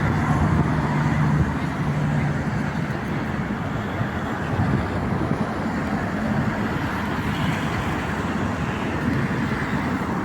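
Road traffic passing: car engines and tyre noise, with a low engine hum in the first second or so.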